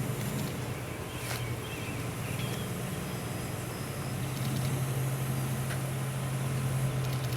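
A vehicle engine idling with a steady low hum, which gets stronger about halfway through.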